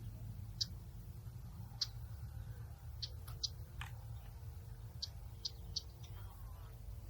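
Outdoor nature ambience: brief high-pitched chirps, about eight of them, come at irregular intervals over a steady low rumble.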